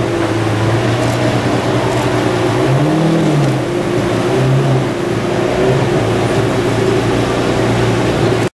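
Lamborghini Murciélago LP640's V12 idling, with a brief throttle blip about three seconds in where the pitch rises and falls back. The sound cuts off abruptly near the end.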